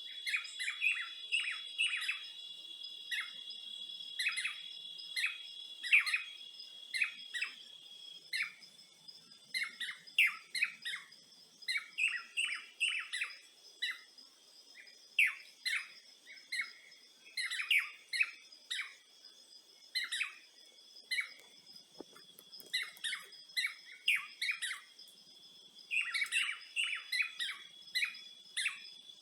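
Birds chirping in many short, quick calls, layered over a steady high-pitched drone of insects such as crickets. The insect drone is strongest for the first several seconds, then fades back.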